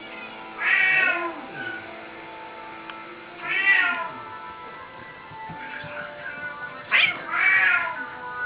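A kitten meowing three times, a few seconds apart, each call bending down in pitch at its end, over steady background music.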